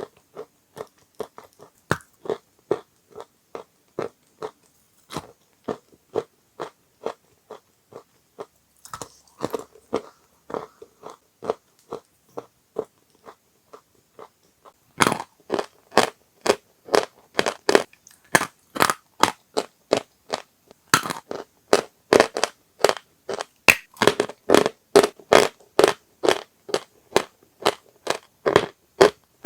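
Dry chalk crunching in a series of short, sharp crunches, sparse at first and then coming faster and louder about halfway through.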